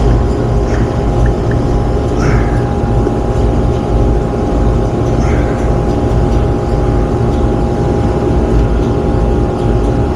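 Commercial rooftop HVAC unit running: a loud, even mechanical hum with a constant tone over it.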